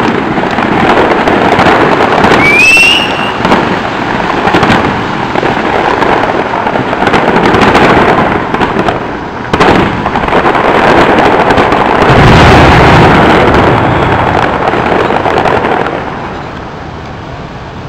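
Fireworks display going off: a dense run of crackling and bangs from many shells, with a short rising whistle about two and a half seconds in and a deep boom about twelve seconds in, fading near the end.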